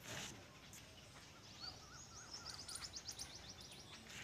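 Faint outdoor background with small birds chirping: a quick run of high, rapid chirps and a short warbling whistle repeated several times in the middle, after a brief rustle at the start.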